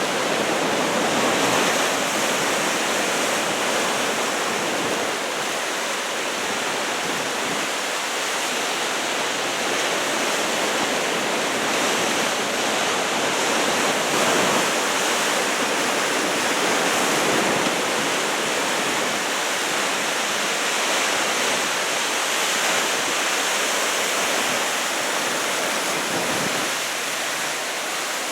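Ocean surf from a typhoon swell of about two metres, breaking and washing continuously as a steady rush of noise that swells and eases slightly.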